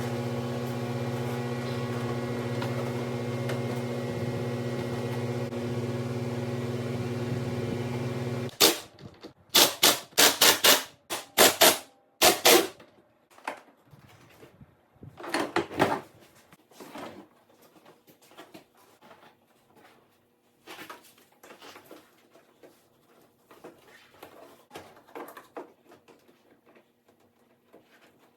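A steady electrical hum that cuts off suddenly after about eight seconds, followed by a quick run of loud sharp knocks and clacks, then scattered quieter knocks and taps, like tools and parts being handled in a workshop.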